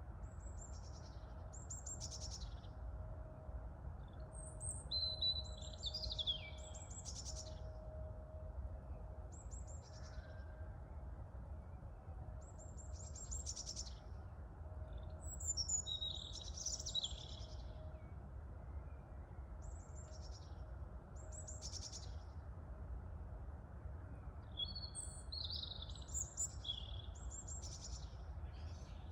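Small songbirds singing in short, high chirping phrases again and again over a steady low rumble of wind and distant city noise.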